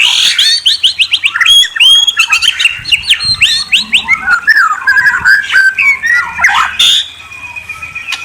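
A murai, a Copsychus songbird, singing a fast, loud run of whistles, trills and sweeping glides; the song thins out near the end.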